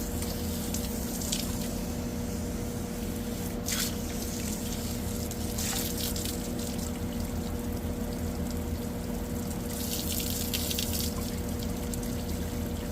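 Water spraying from a hose through an air-conditioner condenser coil, washing out the dirt, the hiss of the spray swelling several times. A steady low hum runs underneath.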